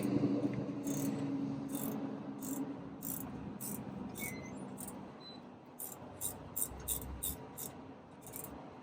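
A low vehicle engine hum fading away over the first five seconds, then a run of light, sharp clicks, roughly two a second, that stops shortly before the end.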